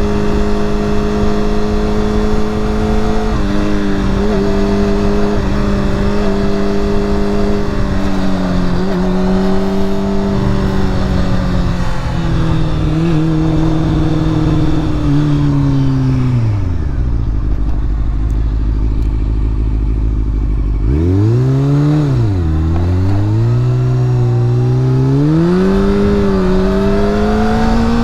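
Honda CBR sport bike's engine while riding, with wind noise: it holds a steady cruise, drops to idle about two-thirds of the way in, then pulls away, the pitch climbing in steps as it shifts up through the gears.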